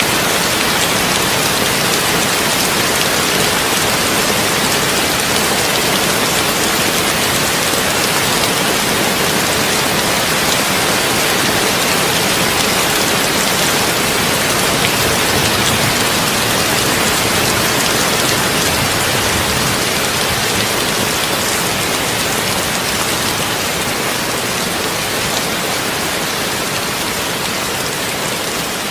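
Heavy rain falling on a tin roof: a steady, dense hiss of drops with no thunder, easing slightly toward the end.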